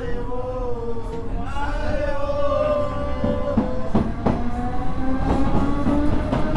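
Train running: a steady tone slowly rising in pitch over a low rumble, with sharp clicks starting about halfway through.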